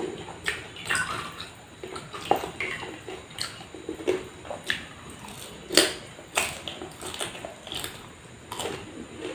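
Close-miked eating: wet chewing and mouth smacks, with sharp crunchy or squishy bites at irregular intervals, the loudest about two-thirds of the way through.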